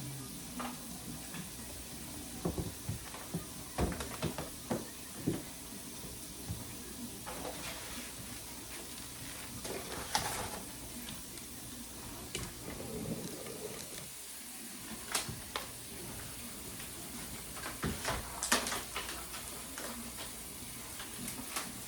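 Groceries being put away in a kitchen: irregular knocks, clatters and rustles of packages and containers being handled and set down, over a steady hiss.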